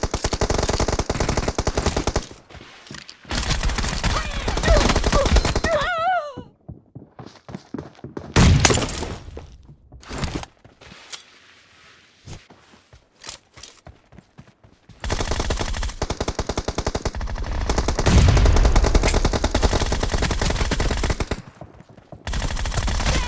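Video game automatic gunfire: rapid fire in several long bursts with quieter gaps between them, and a single loud heavy hit about eight seconds in.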